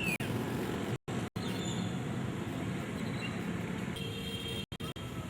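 Steady road-traffic noise, a low rumbling hum, broken by abrupt dropouts of sound about a second in and again near the end.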